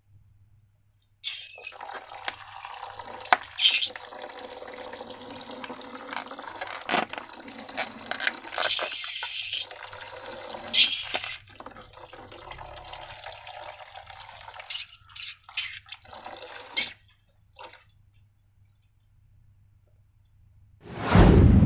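Liquid pouring and dripping into a container with scattered splashes, running for about fifteen seconds and then stopping. Near the end comes one short, loud thump.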